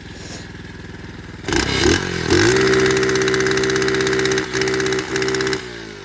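A 125cc pit bike engine idles quietly, then revs up hard about a second and a half in. It climbs to a high, steady note held at full throttle, with a couple of brief dips, then drops off as the throttle is released near the end.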